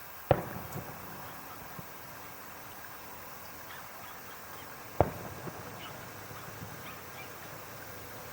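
Two fireworks shells bursting overhead: two sharp bangs about five seconds apart, each trailing off briefly.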